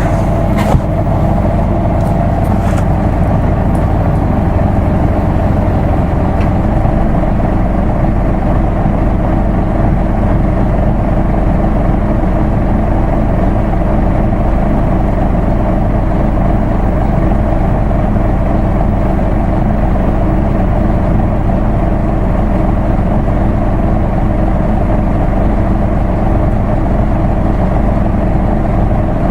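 Isuzu Erga Mio city bus's diesel engine running steadily, heard from on board, with a few short clicks in the first few seconds.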